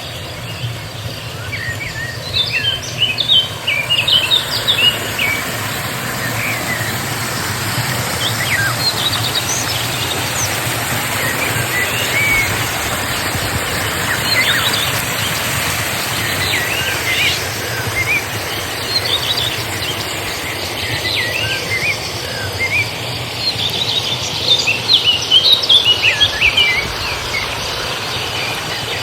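Songbirds chirping in quick flurries of short, high notes over a steady background hiss; the chirping is busiest a couple of seconds in and again near the end.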